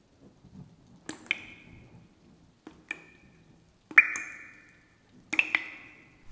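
A small bell rung four times, a second or so apart, each ring a clear high tone that fades away; the third ring, about four seconds in, is the loudest.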